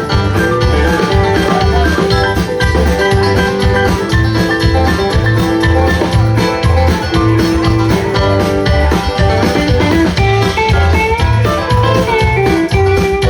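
Live band music: plucked guitar lines over a steady bass beat.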